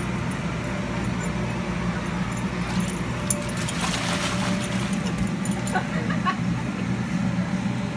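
Steady low hum of a motor, with a rushing, hissing noise swelling for about a second and a half in the middle and a few light clicks.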